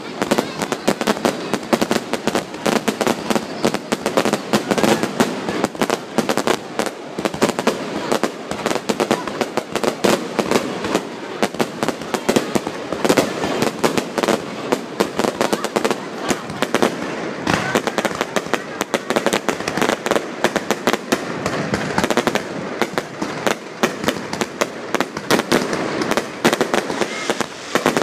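Fireworks display: a dense, unbroken run of crackling and popping as many bursts overlap.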